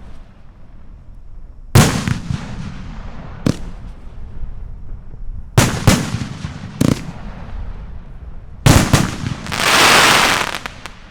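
A 56-shot consumer firework cake firing: about seven loud bangs of bursting shells at irregular intervals, some in quick pairs, each with a short trailing rumble. Near the end comes a loud hissing rush that swells and fades.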